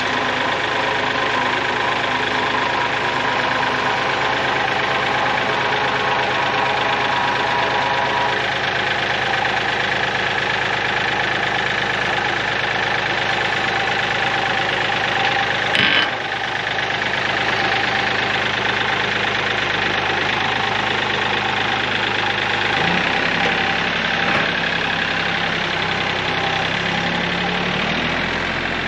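Kioti CK3510 compact tractor's three-cylinder diesel engine running steadily with a clattery idle. A single sharp knock comes about sixteen seconds in, and the engine note shifts in the last few seconds.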